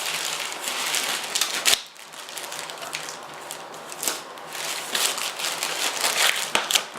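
Packaging being handled and unwrapped by hand: uneven crinkling and rustling, with a sharp knock about two seconds in and another near the end.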